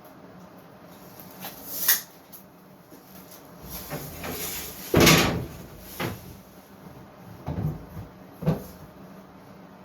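Wooden knocks and thumps from boards or cabinet panels being handled and set down: separate sharp knocks, a short sliding scrape, and the loudest thump about five seconds in.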